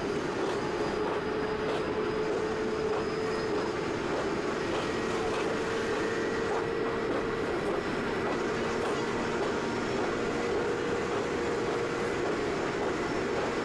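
High-speed train running at speed, heard from inside a carriage: an even, steady rumble with a constant hum.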